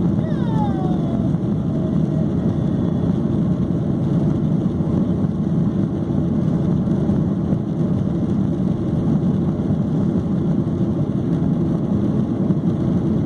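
Steady jet drone of a Boeing 737-800, its CFM56-7B turbofans and the airflow heard as an even, loud low rumble inside the cabin.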